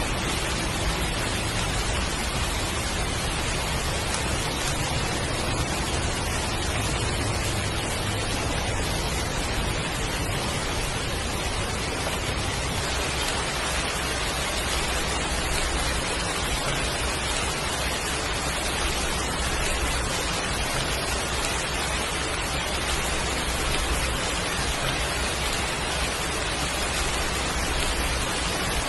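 Heavy rain falling steadily, an even hiss with a low rumble beneath.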